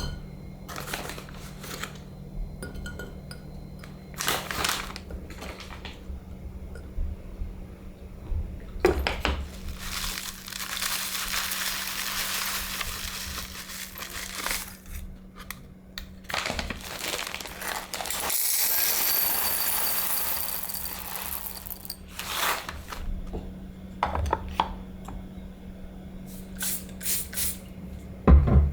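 Dishes, glassware and cutlery clinking and knocking as they are handled, with two stretches of steady hissing of about four seconds each around the middle and a loud knock near the end.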